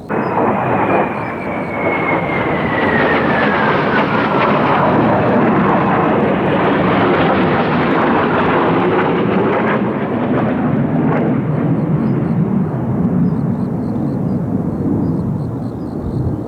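Kawasaki T-4 jet engines passing low overhead: a loud whine that falls steadily in pitch over the first few seconds, then a dense jet rumble that eases a little near the end.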